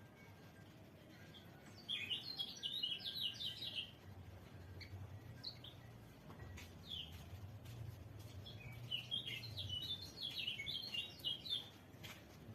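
White-eye (pleci) singing in two rapid twittering phrases of quick high chirps, with a few single chirps between them. A faint low hum runs underneath from about four to ten seconds in.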